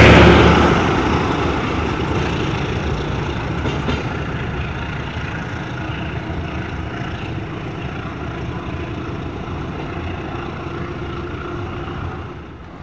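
Local passenger train of economy coaches rolling past on the rails, loudest right at the start as the last coaches go by, then fading over a couple of seconds into a steady lower rumble as the train moves away.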